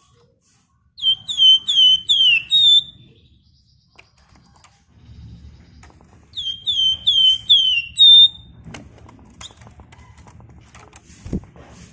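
Flamboyan (wergan Jawa, Javan fulvetta) singing. A run of about five quick, sharp whistled notes, each bending down in pitch, starts about a second in, and a second such run comes about six and a half seconds in. A brief low thump is heard near the end.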